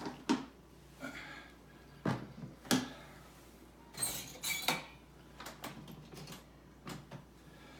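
Scattered household knocks and clicks, with a short scrape or rustle about four seconds in.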